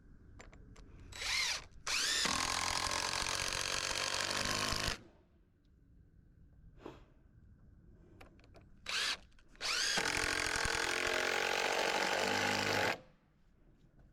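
Handheld power drill run twice, each time for about three seconds after a brief trigger blip, spinning up at the start of each run.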